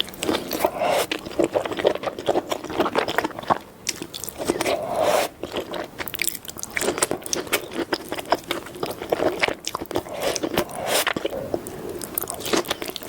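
Close-miked eating of king crab in a creamy cheese sauce: repeated bites and crunches with wet chewing and scraping, in quick irregular clicks throughout.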